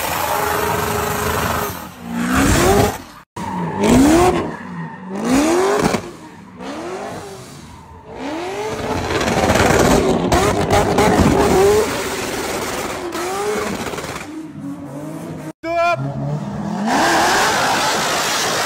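Corvette V8 engines revving hard in repeated rises and falls, with tyre squeal, during donuts and burnouts. The sound breaks off abruptly twice between quick cuts.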